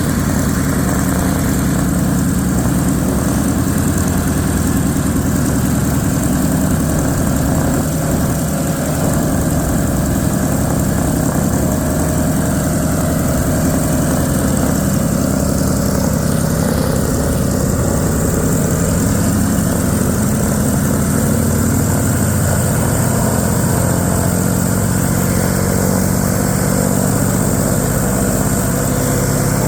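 Vought F4U Corsair's Pratt & Whitney R-2800 18-cylinder radial engine running steadily on the ground at low power.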